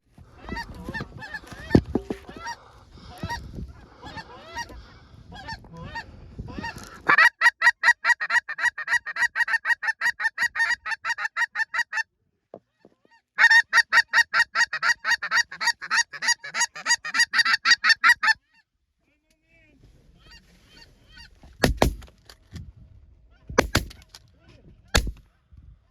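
Geese honking: softer scattered honks at first, then two long runs of loud, rapid, evenly spaced honks, about four or five a second, from about a quarter of the way in to about two thirds. A few sharp bangs near the end.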